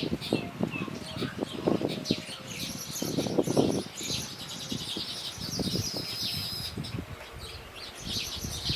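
Small birds chirping in quick short notes, with a fast trill in the middle, over repeated rustling and scuffing.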